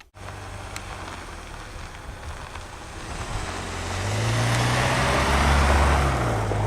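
A car engine and road noise, a steady low hum under a rushing haze, growing louder about four seconds in.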